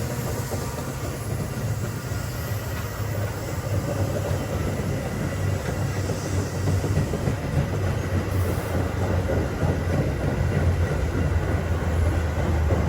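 Metra UP West commuter train at the platform, its diesel locomotive running with a steady low engine sound and rail noise, a little louder in the second half.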